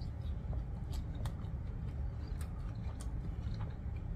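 Close-miked chewing of a mouthful of stir-fried noodles: a few short, wet mouth clicks scattered over a low steady hum.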